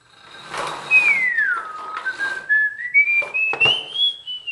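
A person whistling one note that swoops down, then climbs back up in steps and slowly falls again, with a few knocks and rustling around it.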